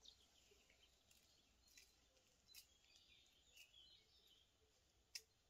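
Near silence: faint bird calls in the woods, with a few light clicks, the sharpest about five seconds in.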